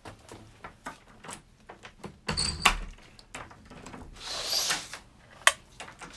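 A run of clicks, knocks and rustles from objects being handled, with sharp knocks about two and a half and five and a half seconds in.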